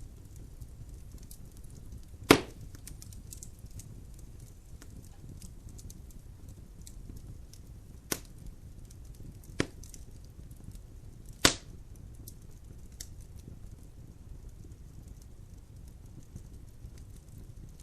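Wood logs burning in a fireplace: a low rumble of the fire with light crackling throughout, and four sharp pops of the wood, the loudest about two seconds in and near the middle.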